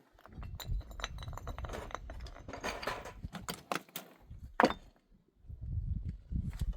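A run of light clinks and knocks, like hard objects being handled, with one louder sharp knock about four and a half seconds in.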